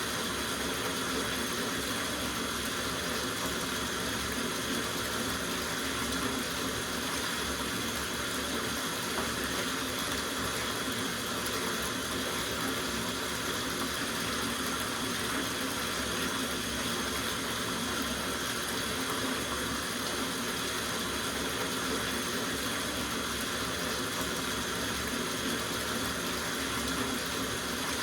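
Tap water running steadily into a soaking bathtub, an even rushing splash that doesn't change.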